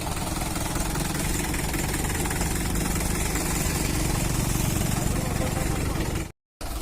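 A tractor's diesel engine running steadily, with a brief break in the sound near the end.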